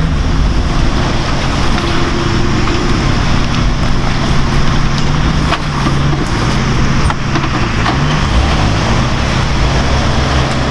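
Off-road vehicle's engine working under load, its pitch rising and falling repeatedly as the throttle is worked, over a steady dense noise.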